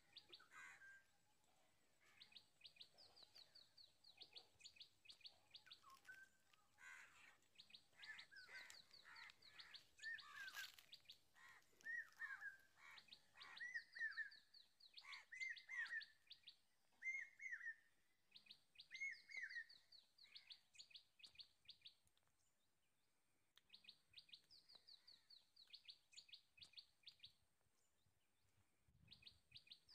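Faint birdsong: rapid trains of high, thin chirps repeating throughout, with lower, down-slurred calls from another bird through the middle stretch.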